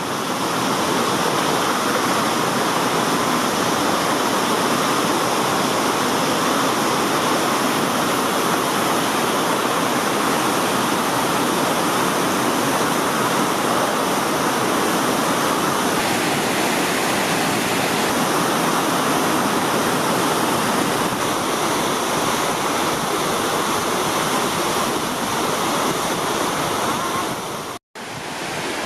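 A swollen, flooded mountain stream rushing steadily, a continuous loud roar of water. The sound cuts out for a moment near the end.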